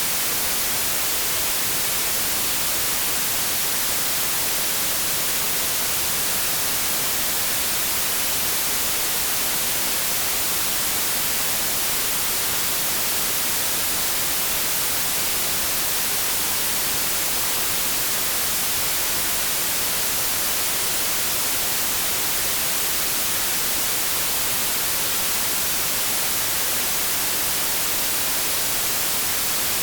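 Continuous white noise: an even, steady hiss with no change in level, brightest in the high frequencies.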